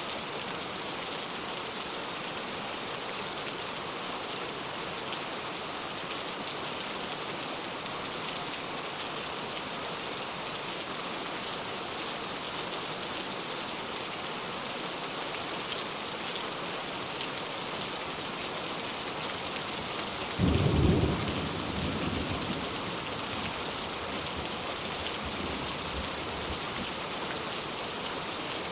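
Steady heavy rain falling on the ground, with a sudden crack of thunder about two-thirds of the way through that rolls off into a low rumble over a couple of seconds.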